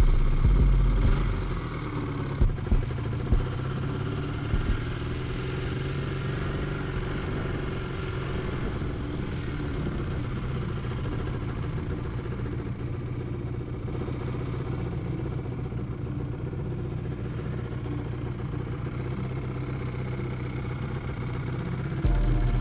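Honda Twinstar 200cc motorcycle engine running steadily at low revs, with a few short clunks a few seconds in.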